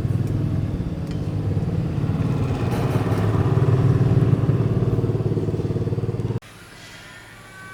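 An engine running steadily with a low, fast-pulsing note, which cuts off abruptly about six seconds in.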